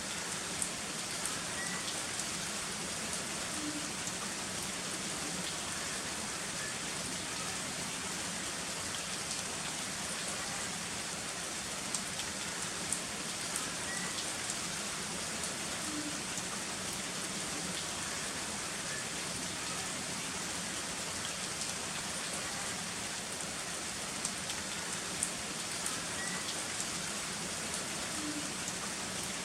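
Heavy rain falling steadily, with sharper individual drops ticking now and then.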